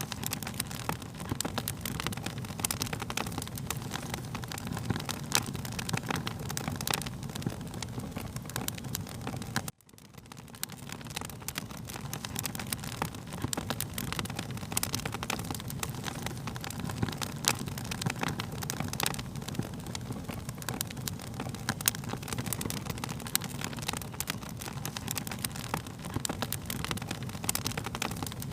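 Wood fire crackling and popping, with a steady low rumble under frequent sharp crackles. About ten seconds in the sound cuts out for a moment and fades back up.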